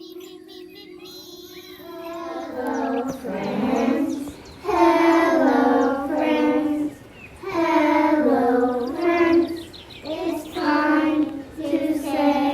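A child singing a song in held phrases with short breaks, soft at first and louder from about two seconds in.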